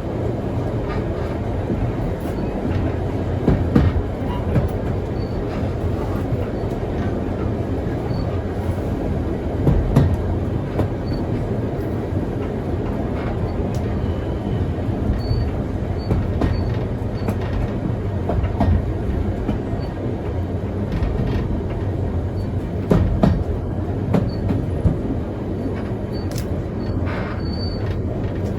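Vintage steam train rolling along the track: a steady low rumble of wheels on rail, broken by a few louder, irregular knocks.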